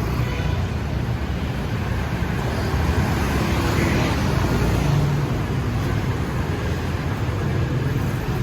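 Steady city street traffic: the hum of passing engines and road noise.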